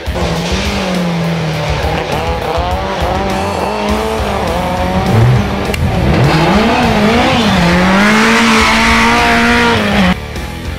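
Toyota Corolla AE86 rally car's engine revving at high rpm, its pitch repeatedly climbing and dropping, with a brief low dip about five seconds in. It cuts off suddenly about ten seconds in.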